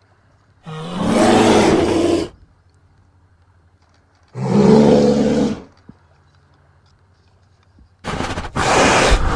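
A large animal roaring three times, each call about one and a half seconds long with quiet gaps between; the last one starts with a short break.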